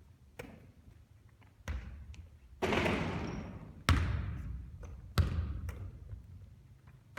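Basketball bouncing on a court: about six separate thuds, roughly a second apart, each trailing off in an echo.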